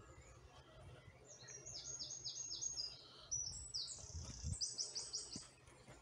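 A songbird singing one phrase of about four seconds: quick high notes, many of them falling in pitch, ending in a fast run of repeated notes.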